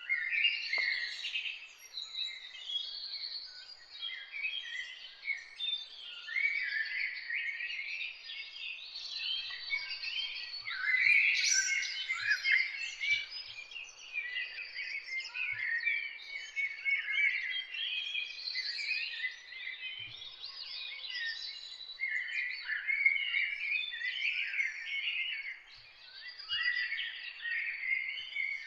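Several songbirds singing and chirping together at once, a dense, unbroken chorus of short, quick phrases.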